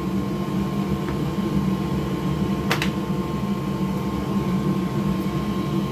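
Steady whir and hum of a fan-driven bench machine, with one sharp click a little under three seconds in.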